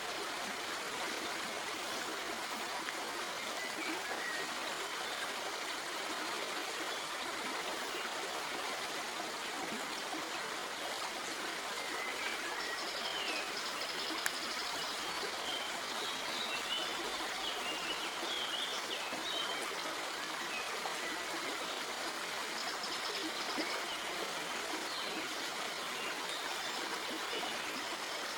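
A stream of water flowing and trickling over rocks, a steady, even rush of water.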